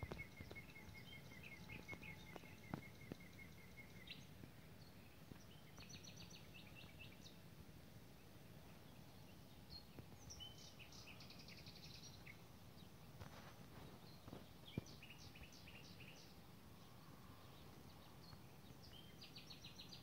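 Faint birdsong over a low steady rumble: a fast run of evenly spaced notes for the first few seconds, then several short, higher trilled phrases scattered through the rest.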